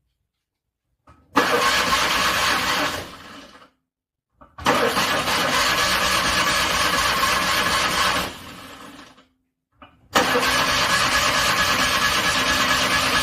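A cold car engine being cranked in three separate attempts of a few seconds each, separated by silence. The first two die away as the cranking stops, and the third cuts off suddenly.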